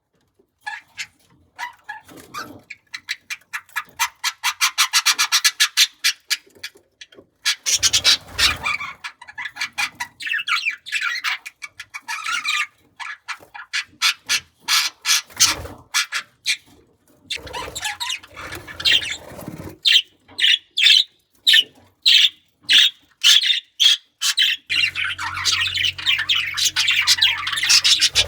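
Budgerigars chirping and chattering in quick runs of short, high calls, with brief pauses between bouts. A low steady hum comes in near the end.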